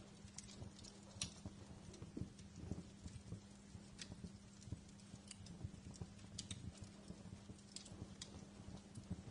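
Wood fire crackling in a fireplace: irregular sharp pops and snaps several times a second over a steady low hum.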